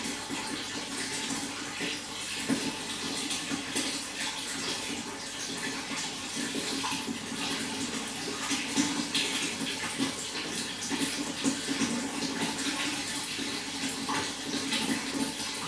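Running water, splashing and gurgling steadily without a break.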